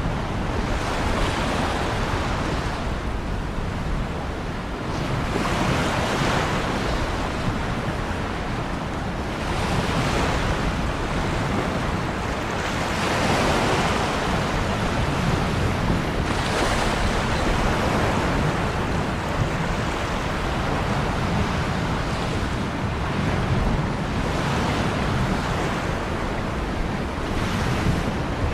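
Ocean surf: waves breaking and washing in one after another every few seconds over a steady low rumble.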